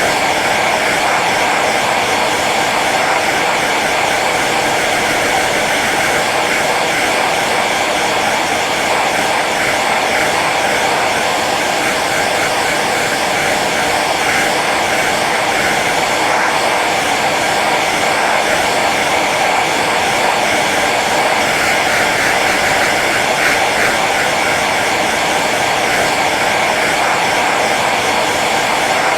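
Hair dryer running steadily on its low setting: an even whooshing hum of fan and blown air, unchanging throughout.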